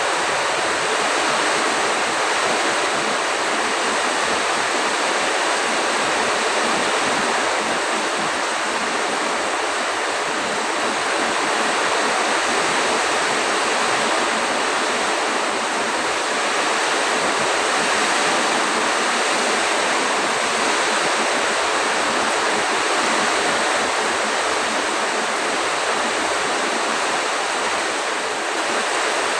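Heavy storm rain pouring down with wind, a loud, steady, unbroken hiss.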